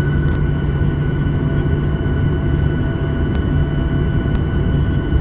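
Cabin noise inside a Boeing 737-800 before takeoff: a steady low rumble with a constant high whine from the engines at ground idle and the air systems, with a few faint ticks.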